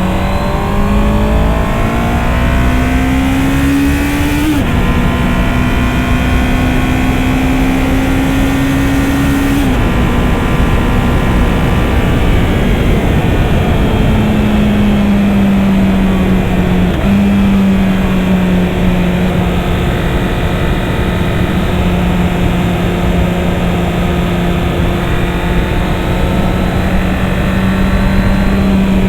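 Honda CB650R's inline-four engine accelerating through the gears: its pitch climbs and drops sharply at an upshift about four and a half seconds in, climbs again and drops near ten seconds, then holds a fairly steady cruise. Wind and road noise run under it.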